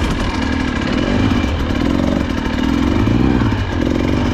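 Off-road motorcycle engine revving up and down over and over, its pitch rising and falling several times as it rides over rough ground.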